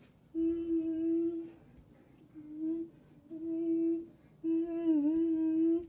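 A voice humming four held, steady notes on nearly the same pitch; the last and longest dips briefly in pitch.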